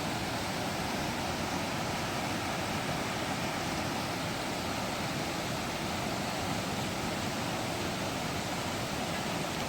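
Steady rushing noise of falling water from a waterfall, an even hiss with no change.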